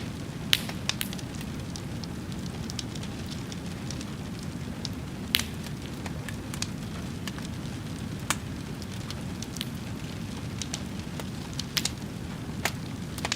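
A fire crackling: a steady low rushing bed with scattered sharp pops, the strongest about half a second in and again a little after five seconds.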